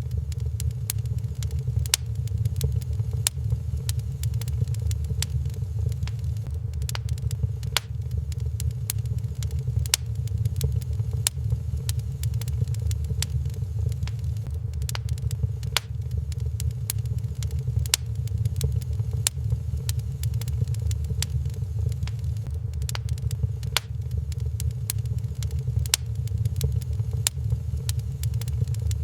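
Wood fire crackling in a fireplace, with frequent sharp irregular pops over a steady low rumble.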